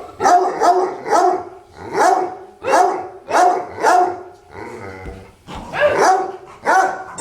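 Dogs giving a run of short, pitched barks and yelps, about one every half second to second, with a break of about a second midway, just after a long howl.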